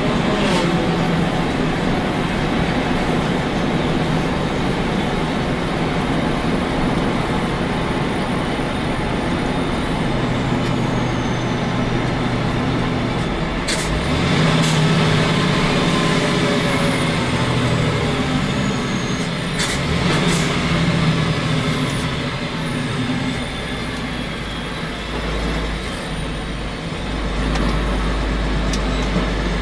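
Heavy truck's diesel engine running on the move, heard from inside the cab through an open roof hatch. The engine note changes pitch a couple of times, with a few short sharp clicks or hisses in the middle.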